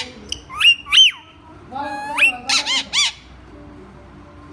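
Indian ringneck parakeet calling in short, shrill squawks that rise and fall in pitch. Two come about a second in, then a quick run of four between two and three seconds, and the bird falls quiet near the end.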